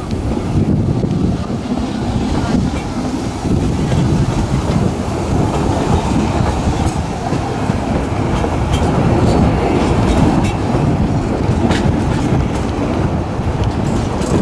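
A narrow-gauge railway train running with a steady rumble, and occasional sharp clicks from the wheels and track.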